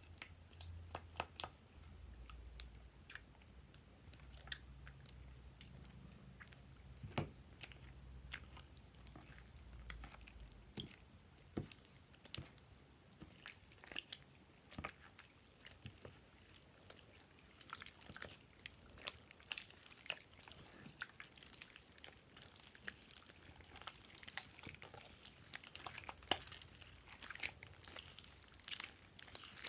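Glossy slime being worked by hand: irregular sticky clicks and small wet pops, coming faster in the second half.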